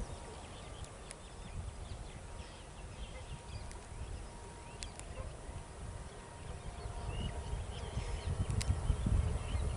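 Outdoor ambience: an uneven low rumble, like wind buffeting the microphone, that grows louder over the last few seconds, with many faint short chirps of small birds and a few light clicks.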